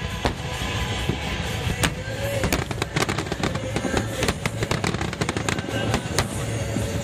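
Aerial fireworks bursting and crackling, the sharp cracks thickening into a dense run about two and a half seconds in, over a steady low rumble.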